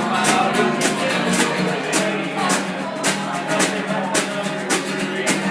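Live band music with strummed guitar over a steady beat of about two strokes a second.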